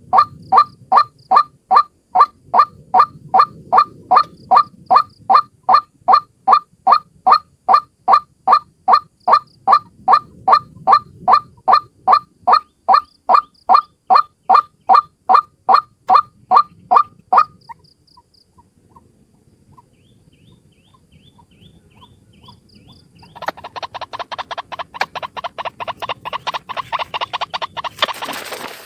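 White-breasted waterhen (ruak-ruak) lure call: a loud, monotonous series of the same note at about two to three a second. The series breaks off after about 17 seconds. A few faint notes follow, then from about 23 seconds a faster, denser run of calls.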